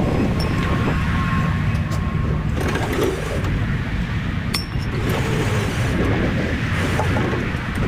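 Steady low engine and road rumble of a semi truck under way, with a few sharp metallic clinks.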